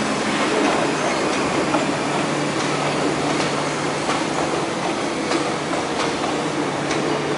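MTR electric metro train running on the track: a steady rumbling hum with light clicks from the wheels every second or so.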